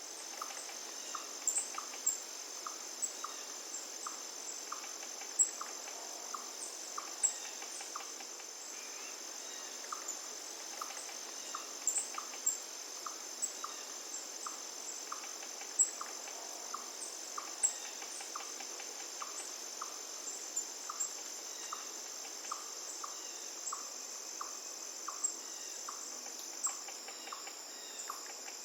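Crickets trilling in a steady high-pitched drone, over a faint even hiss of running river water. A short chirp repeats about one and a half times a second, with scattered sharp ticks.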